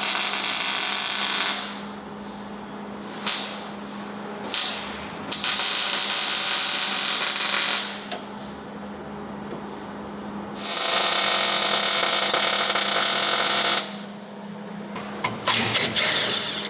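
Three bursts of power-tool metalworking on the steel axle mounting plate, each a loud rushing, sizzling noise lasting two to three seconds, with short blips in between, over a steady shop hum.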